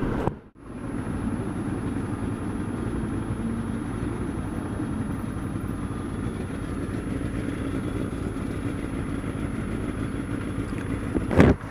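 Motorcycle engine running steadily while riding, with road and wind noise. The sound drops out briefly about half a second in, and there is a short knock near the end.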